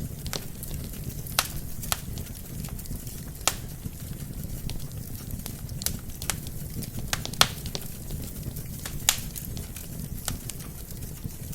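Wood fire burning in a fireplace: a steady low rumble of flames with irregular sharp crackles and pops from the logs, a few louder pops scattered through.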